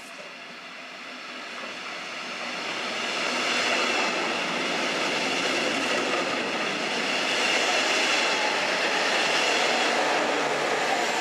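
Red double-deck regional train with a locomotive at the rear running past close to the platform. The running noise builds over the first few seconds as the train approaches, then stays loud as the coaches and locomotive go by.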